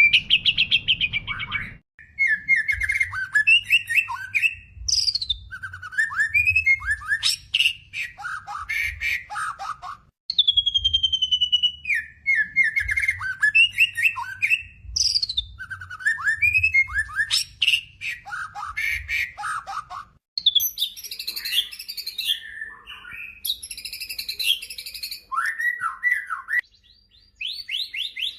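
White-rumped shama (murai batu) singing a rapid, varied song of whistles, trills and chattering phrases with brief pauses. About ten seconds in, the same run of phrases repeats.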